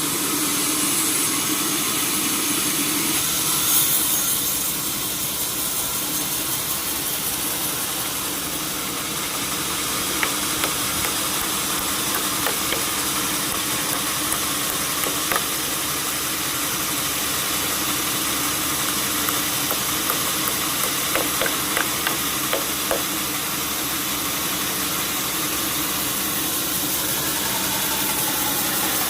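Sawmill machinery running steadily with a hissing whir, with scattered short clicks and knocks through the middle.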